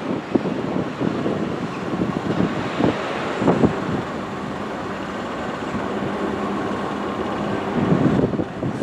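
Diesel train running past with a steady rumble, a faint engine drone and scattered knocks of wheels over the rails.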